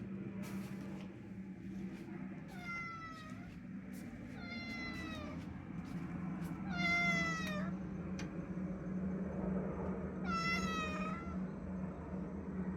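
Domestic cat meowing four times, a second or two apart, the third meow the loudest, over a steady low hum.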